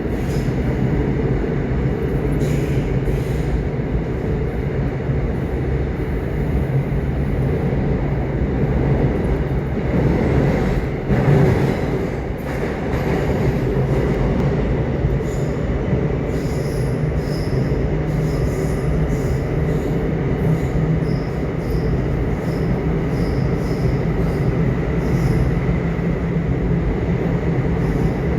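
Subway train running: a steady low rumble of wheels on rails, swelling briefly about a third of the way in, with short high squeaks from the wheels here and there in the second half.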